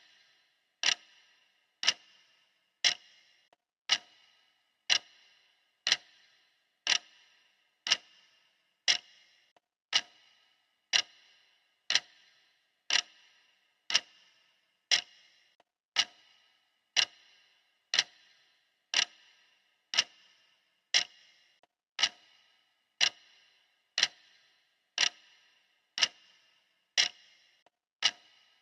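Clock ticking steadily, one sharp tick every second, each with a short ringing tail.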